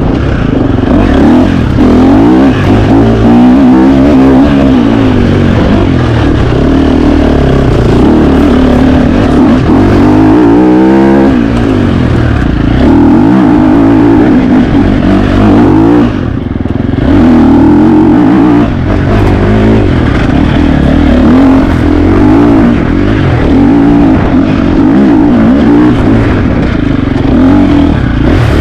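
2025 KTM 350 XC-F's single-cylinder four-stroke engine revving up and down under load, loud throughout. The throttle comes off briefly about sixteen seconds in before the engine pulls again.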